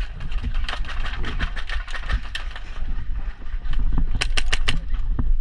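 Airsoft gunfire and movement: scattered clicks and knocks over a low rumble, with a quick string of about five sharp shots about four seconds in.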